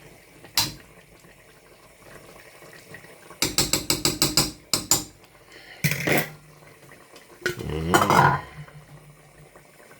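Metal utensil clinking and scraping against a cooking pot: a single click, then a quick run of about eight light taps, then two louder scraping clatters.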